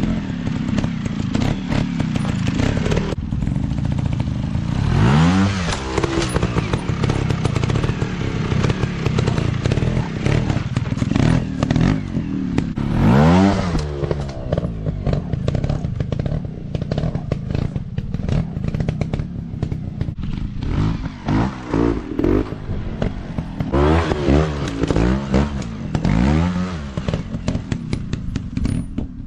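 Dirt bike engines revving, the pitch rising and falling repeatedly with the throttle, over constant clattering and knocking.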